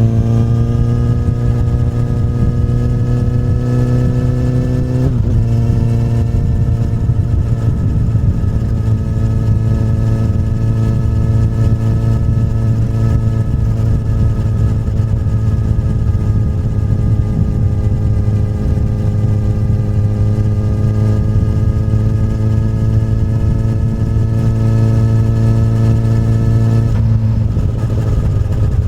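Exhaust note of a 2008 Honda CBR1000RR's inline-four through an Akrapovic carbon slip-on, under way and pulling. The pitch climbs, drops suddenly about five seconds in as it changes up a gear, climbs slowly and steadily for a long stretch, then drops again near the end with another upshift.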